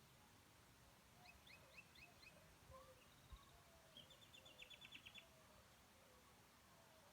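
Near silence with faint bird chirps: a few quick sweeping chirps about a second in, then a short rapid trill around the middle.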